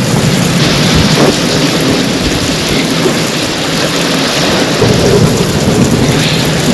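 Loud, steady downpour of rain with thunder rumbling underneath.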